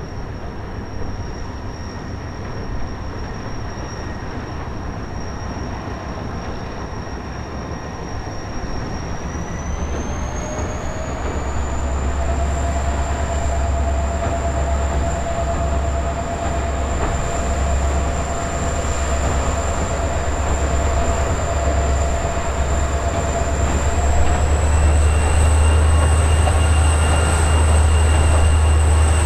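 EMD SD45T-2 diesel locomotive working under load: a deep engine rumble under a high turbocharger whine. About a third of the way in, the whine steps up in pitch and the rumble grows louder as the engine throttles up. Near the end the whine rises again.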